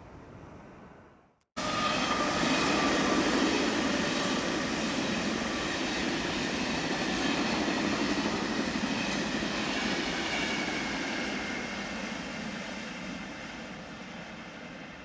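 Electric regional train passing close by: a loud steady rush of wheels on rail with a faint steady whine above it, fading away over the last few seconds. It starts abruptly about a second and a half in, after a brief drop to silence at an edit.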